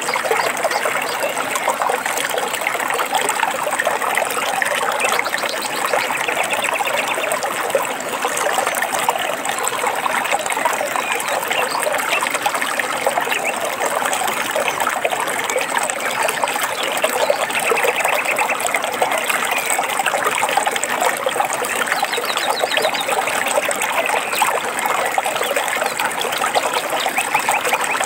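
A stream trickling and babbling steadily, with birds chirping in short trills now and then.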